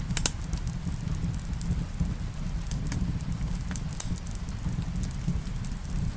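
Wood fire crackling in a fireplace, with scattered sharp pops over a steady low rumble, mixed with rain.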